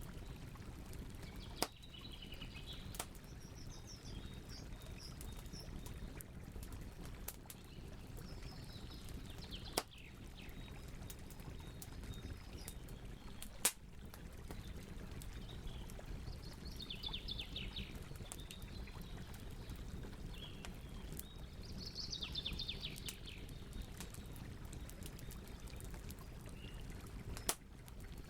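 Wood fire burning with a steady low rush and crackle, and a few sharp pops. Birds chirp and trill in the background.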